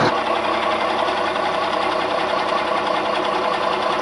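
Fire truck engine idling steadily with a rapid, even clatter.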